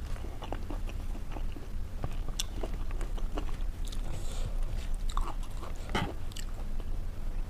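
Close-up chewing and crunching of food, a string of small clicks and crackles with one louder crunch about six seconds in, over a steady low hum.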